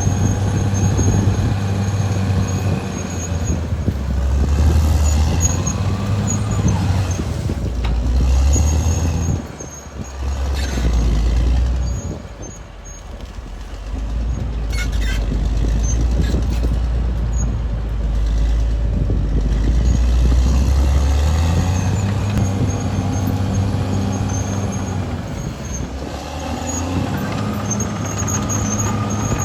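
Caterpillar D6R XL bulldozer's diesel engine working, its pitch rising and falling as the load comes on and eases off, with a couple of brief drops in level about ten and thirteen seconds in. A few short metallic clanks come in just past the midpoint.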